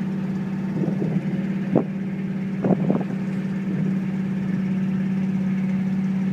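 Engine idling with a steady hum, broken by a few short sharp sounds about one to three seconds in.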